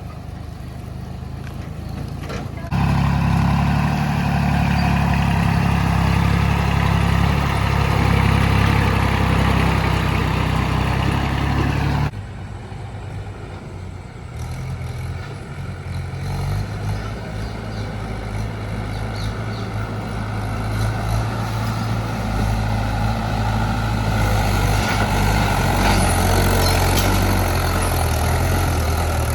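Tractor diesel engine running steadily. The sound jumps suddenly louder about three seconds in, drops back abruptly at about twelve seconds, then slowly grows louder again.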